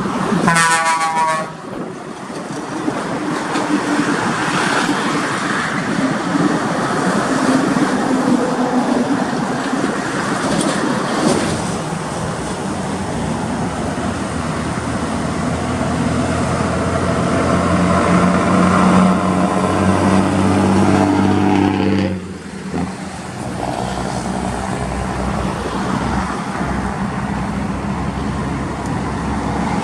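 Heavy trucks running, with a short horn blast falling in pitch at the very start. An engine note grows stronger about two-thirds through, then the sound drops off abruptly.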